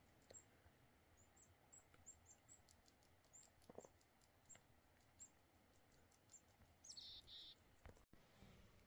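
Near silence with a small bird chirping faintly: short, high chirps about every half second, then a slightly louder call about seven seconds in.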